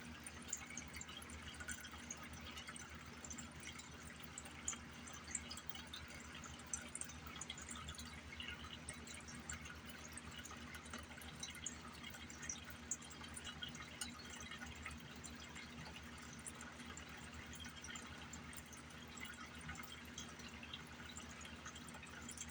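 Water trickling and dripping steadily in many small drops, over a steady low hum.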